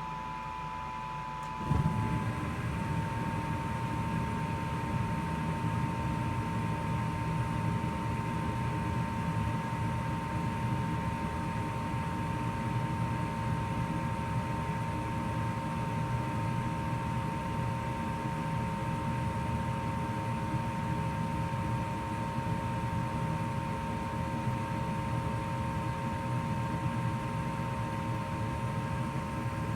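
2004 Goodman gas furnace starting up in heat mode: a steady motor whine runs, then about two seconds in a low rumble sets in suddenly and holds steady as the burners light, and the whine drops slightly in pitch.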